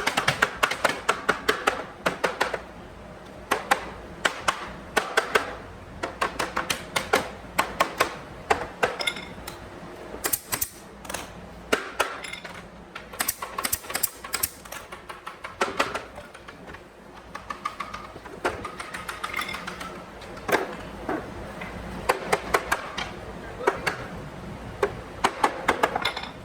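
Rapid light hammer taps on wood in short bursts, each run of quick knocks followed by a brief pause.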